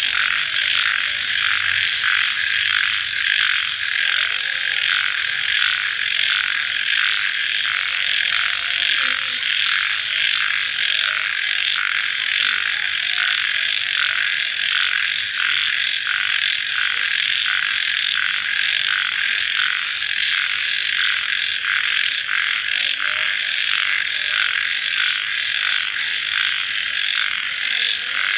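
Dense night chorus of calling animals: a continuous, evenly pulsing trill, with a few fainter lower calls underneath.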